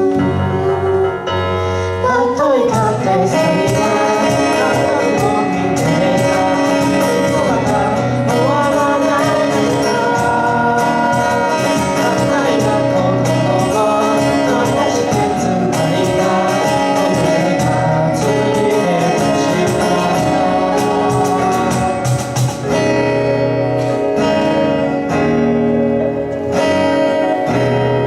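A live band playing a pop ballad: vocal singing over guitar, drums and keyboard, with the singing coming in about two seconds in.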